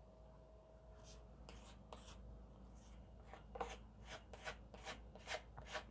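Faint scraping and rubbing strokes of wall filler being spread and smoothed over a crack in a wall: a few strokes at first, then quicker ones, several a second, from a little past halfway.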